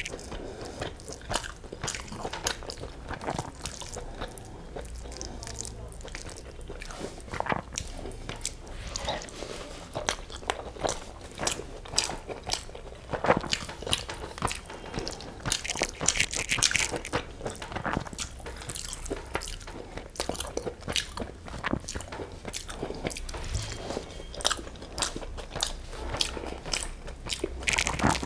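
Close-miked eating of egg biryani with mughlai chicken curry: chewing, heard as a dense, irregular run of sharp mouth clicks, with fingers mixing the rice and gravy on a steel plate.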